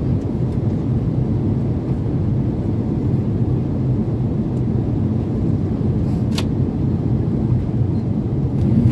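Steady rumble of a Boeing 777-300 airliner heard from inside the cabin during descent: engine and airflow noise, with one brief click about six seconds in.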